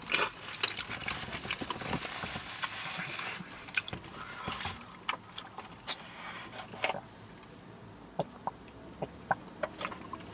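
A person chewing and eating seafood close to the microphone: irregular wet mouth sounds with many short, sharp clicks scattered throughout, sparser in the second half.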